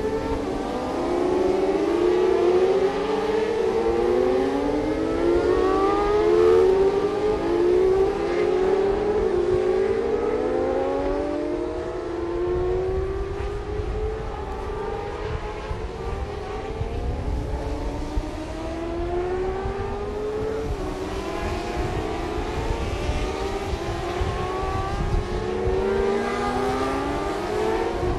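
Several 600 cc supersport racing motorcycle engines at high revs, each pitch climbing and dropping back again and again as the bikes accelerate and shift up through the gears.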